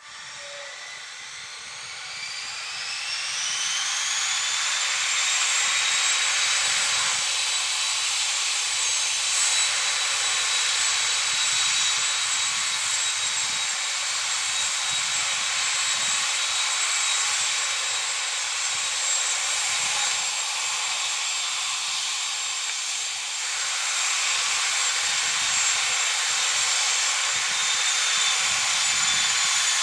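Aircraft turbine engine whine that rises in pitch and grows louder over the first few seconds, then holds a steady high whine over loud rushing noise.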